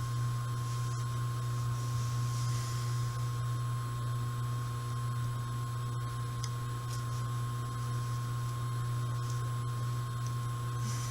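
Steady low hum with a thin high-pitched whine from a laundry machine running in the house. A few faint small clicks sound over it now and then.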